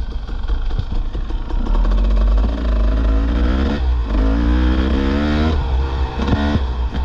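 Dirt bike engine revving up and down while riding a trail, its pitch climbing a few seconds in, cutting out briefly and picking up again, over a heavy low rumble.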